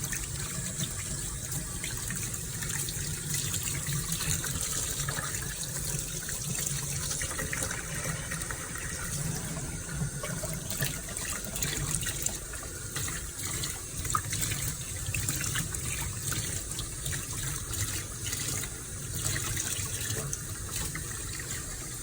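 Tap water running steadily onto a kitten during its bath, with small scattered clicks and splashes.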